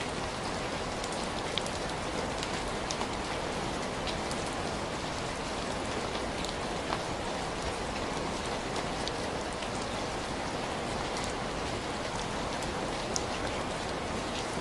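Steady rain falling, with scattered light ticks from drops landing through the even hiss.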